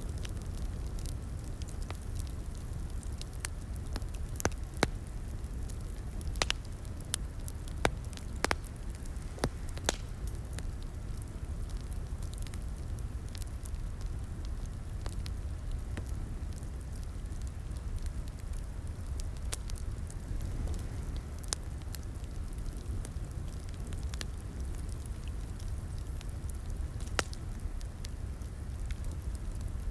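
Wood fire crackling in a fireplace: a steady low rumble of the flames with irregular sharp pops and snaps, a few louder pops in the first third.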